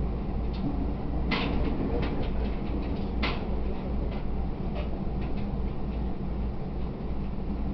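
Inside an E127 series electric train running: a steady low rumble of wheels and motors, with light rattles and two sharper clicks, about a second and a half in and about three seconds in.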